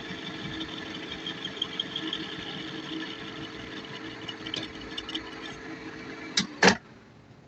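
Metal lathe running with a steady, many-toned machine hum, then two loud clunks about six and a half seconds in, after which the running sound stops.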